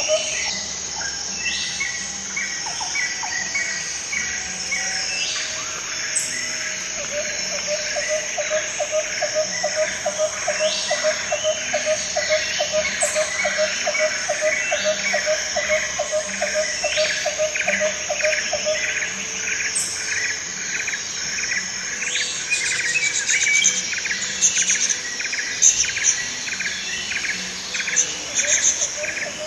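Birds calling and chirping over a steady high insect drone, with long runs of rapid repeated notes and short falling whistles every few seconds.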